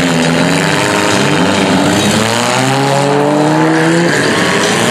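Several small-car engines revving at once, their pitches rising and falling over one another as the cars accelerate and back off.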